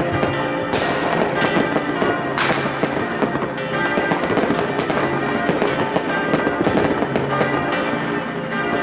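New Year's Eve fireworks going off across the town: a continuous crackle of firecrackers and rockets, with louder sharp bangs just under a second in and about two and a half seconds in.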